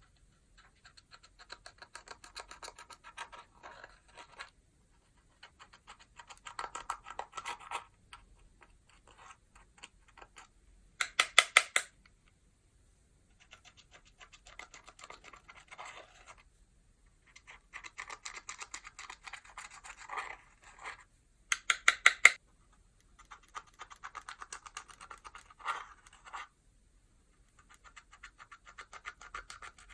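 Clear slime being mixed and squished, giving wet crackling clicks and pops in bursts of a second or two with short pauses between. Two bursts, about eleven and twenty-two seconds in, are much louder.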